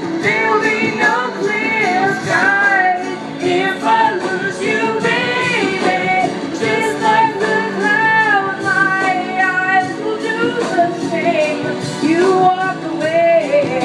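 Middle school show choir singing together over an instrumental accompaniment with a steady beat.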